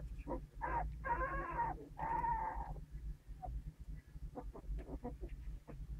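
Puppies whining: two drawn-out whines about a second in, then a string of short squeaks and yelps.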